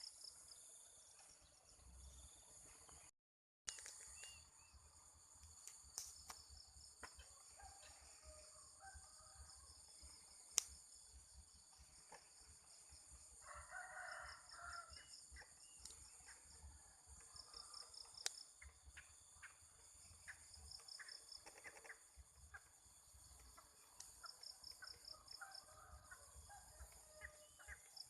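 Faint rural morning ambience: steady high-pitched insect chirring in pulsed trains, with scattered bird calls and a rooster crowing about halfway through. Two sharp clicks stand out, one about 10 seconds in and one about 18 seconds in.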